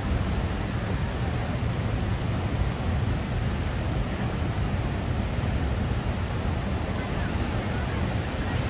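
Steady rush of large ocean surf breaking, mixed with wind rumbling on the microphone.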